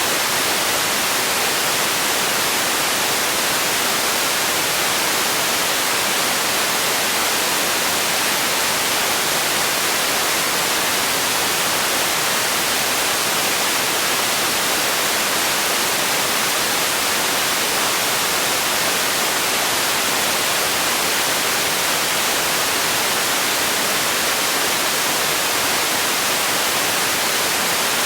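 Steady relaxation noise track: a bright, even hiss with little low end, unchanging throughout.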